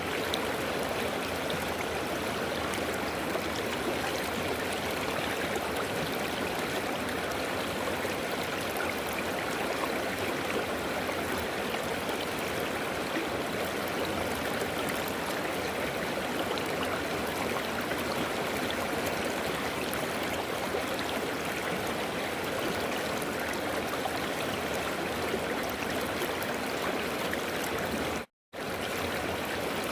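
River water flowing and babbling steadily, with one brief cut to silence near the end.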